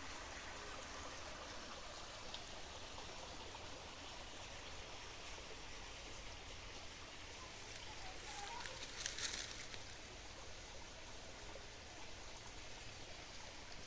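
River water flowing steadily, a faint even rush. There is a brief louder sound about nine seconds in.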